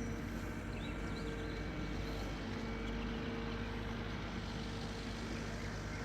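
Steady road and engine noise of a moving car, heard from inside, with an even low drone.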